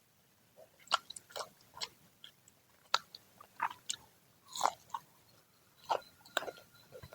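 Close-up chewing and crunching of crispy, freshly fried Indonesian fritters (gorengan): irregular crisp crackles as the fried batter breaks between the teeth, with wetter chewing in between.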